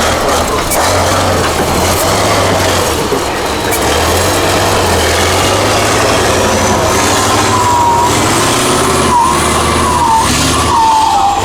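Heavy off-road 6x6 truck's engine working hard under load. A high, wavering whine rises and falls over it in the last few seconds.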